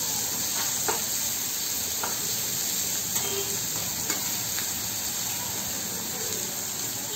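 Sliced onions, green chillies and garlic sizzling in hot oil in a non-stick kadhai, stirred with a flat metal spatula that scrapes and taps the pan now and then.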